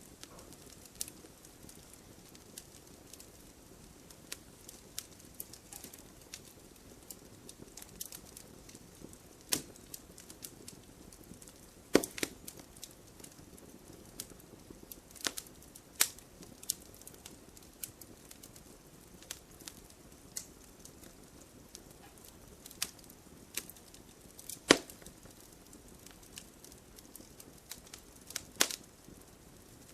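Wood fire crackling in a fireplace: irregular sharp pops and snaps over a soft steady hiss, with a handful of much louder snaps scattered through.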